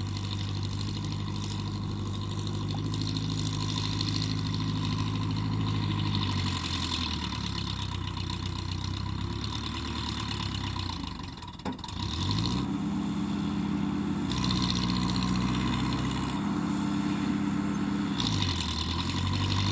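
Powertrac Euro 55 Next tractor's diesel engine running and changing speed. It drops to a lower speed about six seconds in, nearly dies with a click just before the midpoint, then revs back up. It falls again near the end and picks up once more.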